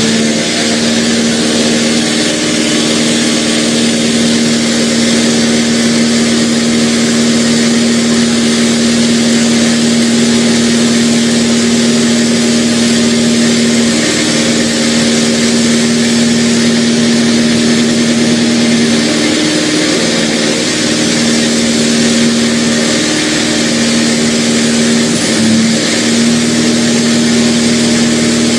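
Semi-truck diesel engine held at high revs during a burnout, with a loud steady hiss of spinning, smoking drive tyres. The engine note changes pitch a few times as the driver bangs through the gears of the manual transmission.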